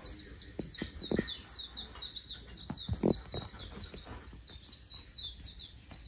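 A bird calling in a rapid run of short, high, downward-sweeping chirps, about four a second, with a few soft knocks underneath.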